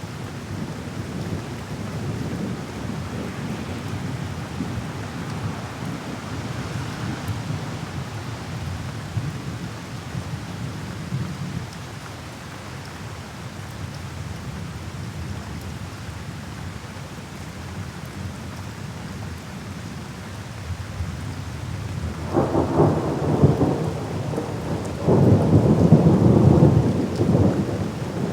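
Steady rain with low thunder rumbling underneath. Two louder peals of thunder roll in during the last quarter, the second one the loudest.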